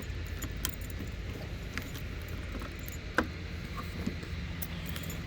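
Scattered small clicks and jingling of keys and a latch being handled, with one sharper click about three seconds in, over a steady low hum.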